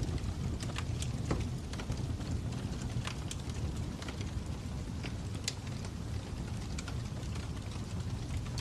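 Fire crackling: a steady low rush with scattered sharp pops and snaps at irregular intervals.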